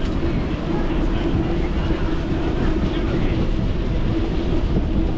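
Steady rumble and wind on the microphone from a bicycle rolling along a paved path, with a steady low hum throughout.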